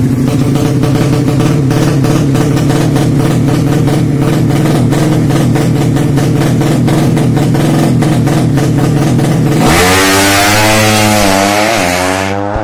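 200cc engine running steadily at a held speed. About ten seconds in, it gives way to a louder, wavering horn-like tone, which sounds like music.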